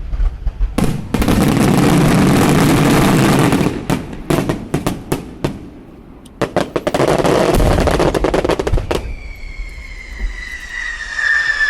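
Fireworks going off: a long spell of dense crackling about a second in, a run of separate sharp bangs, then a second dense crackle around the middle. Near the end a long whistling tone slowly falls in pitch.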